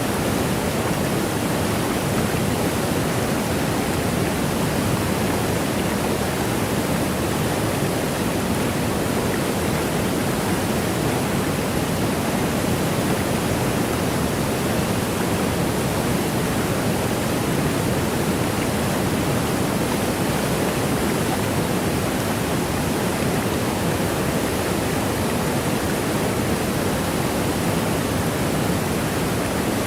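A waterfall's steady rush of falling water, an even hiss with most of its weight in the lower range.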